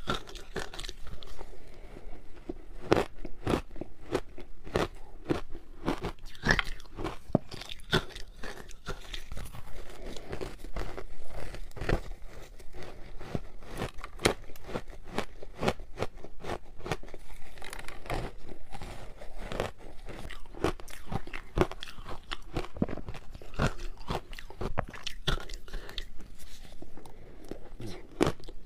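Close-up biting and chewing of a frozen matcha ice ball: a continuous run of sharp, irregular crunches and cracks as the ice is broken between the teeth.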